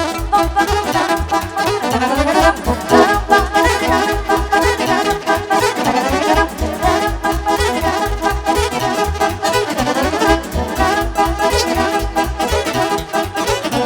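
Instrumental break of a live Romanian folk party band: a quick melody over a steady, regular bass beat, with no singing.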